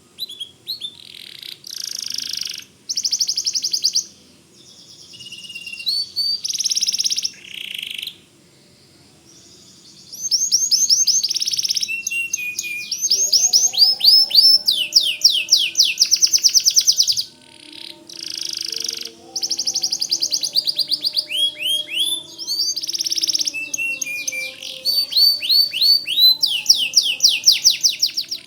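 Domestic canary singing at full song: long phrases of rapid trills and rolls, each a fast run of repeated high notes, some as quick down-sweeping chirps, broken by short pauses.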